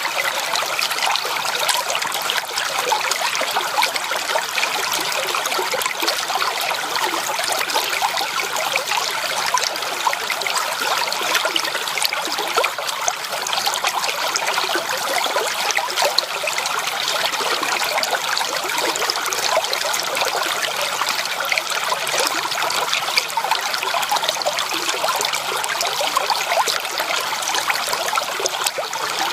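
Shallow creek water trickling and babbling over stones in a steady, unbroken flow.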